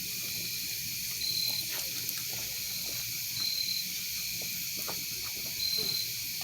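Insect calling: a short high trill repeats about every two seconds over a steady high hiss, with faint scattered crackles from the campfire.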